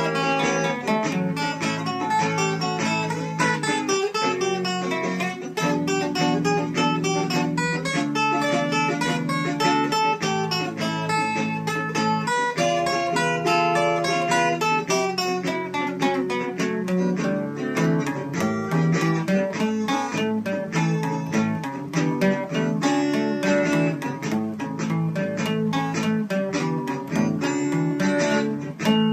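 Acoustic guitar played steadily in an instrumental passage, a busy run of picked notes over strummed chords.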